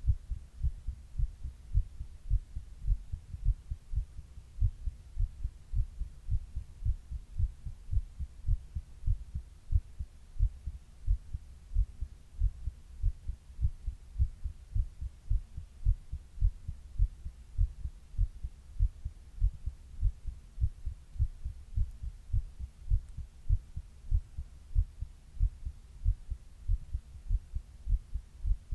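A person's own heartbeat heard close up, like through a stethoscope: deep, low lub-dub thumps in a steady, even rhythm.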